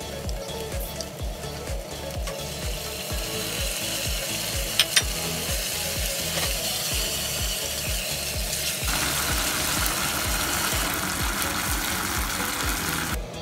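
Chicken pieces sizzling in a hot saucepan, the sizzle growing stronger about nine seconds in, with two sharp knocks of a utensil against the pan about five seconds in. Background music with a steady beat runs underneath.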